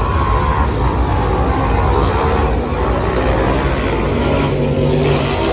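Muscle car's 440 big-block V8 running loud with a deep, steady rumble, its pitch drifting slightly.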